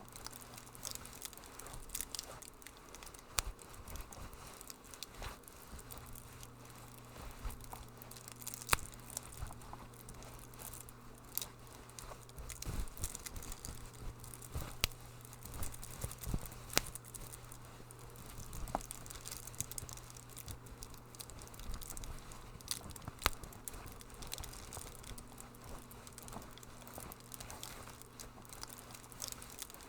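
Wood fire in a fireplace crackling, with irregular sharp pops of varying loudness over a low steady hum.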